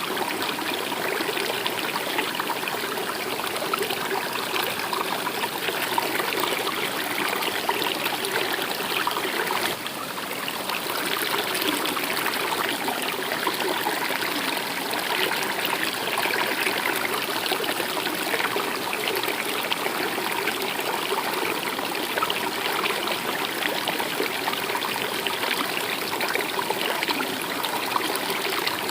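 Stream water flowing and trickling steadily over rocks.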